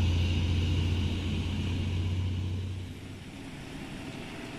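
Heavy tanker truck's engine passing, a steady low drone with road rumble that fades away about three seconds in.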